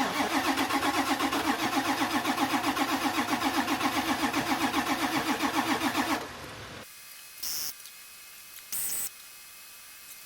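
A truck engine being cranked by its starter motor, turning over in a steady pulsing rhythm of about seven beats a second for about six seconds without catching, then stopping. Two brief, quieter noises follow near the end.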